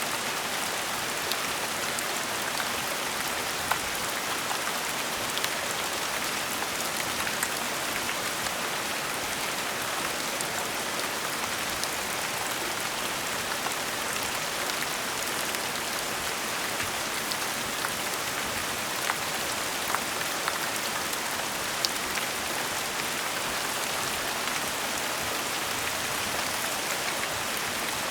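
Steady gentle rain falling on a surface, an even hiss with scattered sharper drips of single drops landing.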